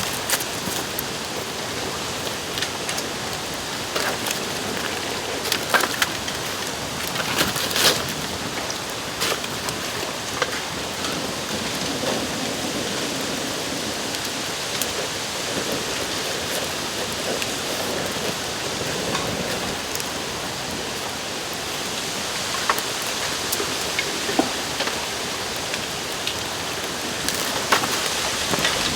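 Bamboo bonfire burning: a steady crackling hiss broken by sharp pops and cracks every few seconds.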